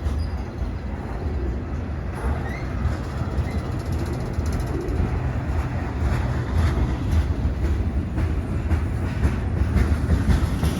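Freight train cars rolling past in a steady rumble, their wheels clicking over the rail joints.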